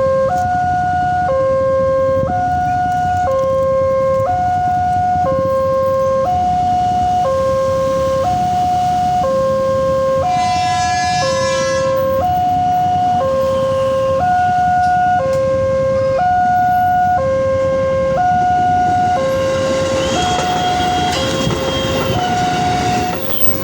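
Railway level-crossing warning alarm sounding a repeating two-tone electronic chime, alternating high and low about once a second, over steady traffic noise. A horn sounds for about two seconds midway, and near the end a rising rush of noise marks an approaching train.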